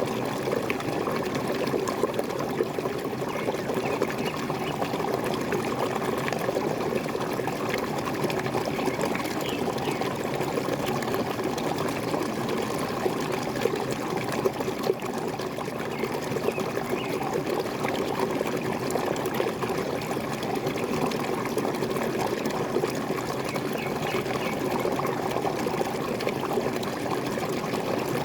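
Small waterfall: water pouring and splashing steadily.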